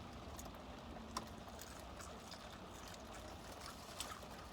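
Faint eating sounds of someone chewing crispy fried chicken: a few scattered small clicks and crackles, the sharpest about a second in and near the end, over a low steady background hum.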